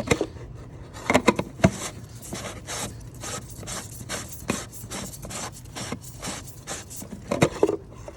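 Oil filter housing cap scraping and rubbing in a run of short strokes, several a second, as it is worked onto the housing by hand, with a few sharper knocks near the start and near the end. The cap is not threading on.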